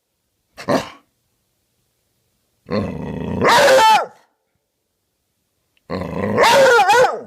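Dog growling and barking in play: a short growl just under a second in, then two longer bouts, each starting as a rough growl and rising into higher, wavering bark-howls.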